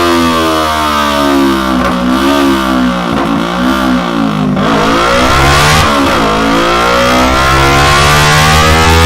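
Kawasaki Ninja 300's parallel-twin engine revving through a Delkevic Mini Round carbon fibre end can, its pitch falling and rising several times, then holding fairly steady for the last couple of seconds.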